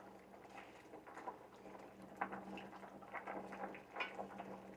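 Faint bubbling and light ticks from a pot of sinigang soup simmering on the stove, with pechay leaves just added, over a steady low hum.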